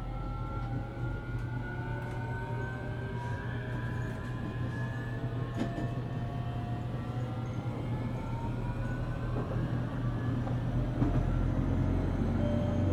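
JR Kyushu 817 series electric train's inverter and traction motors whining as the train accelerates: several tones rise slowly together over a steady low rumble of the running gear. This unit's inverter has an unusual tone, likened to a Keio 7000 series.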